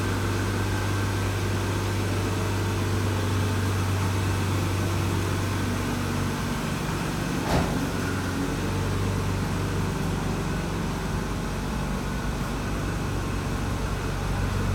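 Car engine idling steadily just after a cold start, with a single short click about halfway through.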